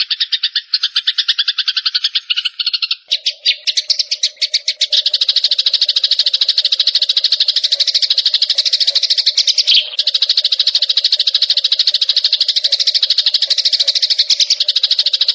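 Small songbird giving a loud, rapid trill of high chips, many per second, unbroken. About three seconds in, it changes to a denser, even trill with a low steady tone beneath.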